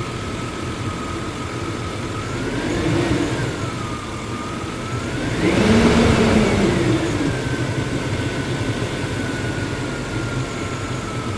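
A 1999 GMC truck's V8 engine idling, blipped once lightly and then revved harder about five and a half seconds in before settling back to idle, with a whine rising and falling with engine speed. It is being checked for misfires after its leaking intake manifold gaskets were replaced.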